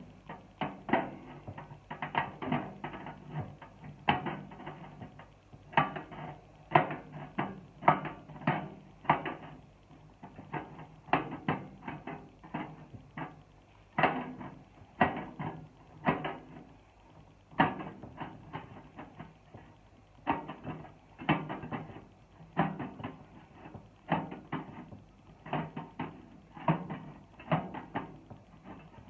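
Hand shears cutting the thin sheet-metal wall of an 18-litre square tin can: a series of sharp snips and crunches, about one or two a second, with short pauses between runs of cuts.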